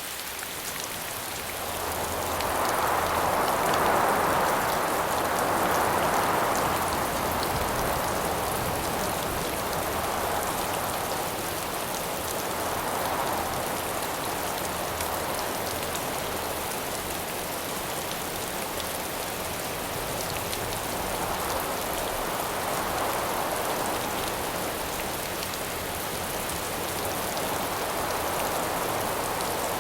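Steady rain, with a howling wind that swells and fades in slow gusts. The strongest gust comes a couple of seconds in.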